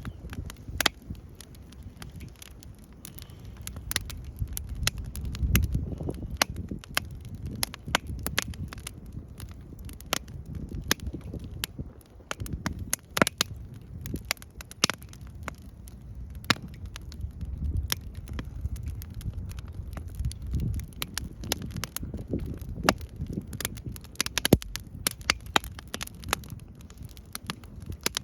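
Wood fire crackling, with frequent sharp, irregular pops over a low rumble that swells and fades.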